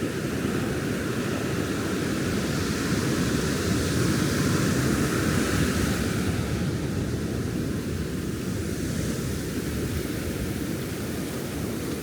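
Ocean surf: waves breaking and washing up the sand in a steady rush that swells louder a few seconds in and then eases.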